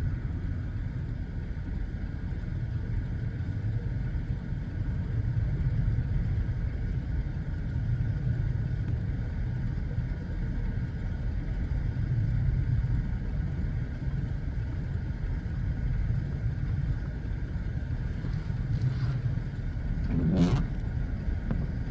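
Steady low rumble of an idling vehicle engine, with one brief, short sound near the end.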